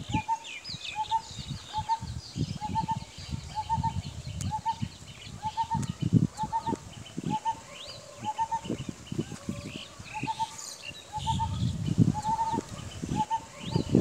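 Birdsong: a short, low note repeated steadily about twice a second, over scattered high chirps from small birds. A low rumble comes and goes underneath, strongest near the end.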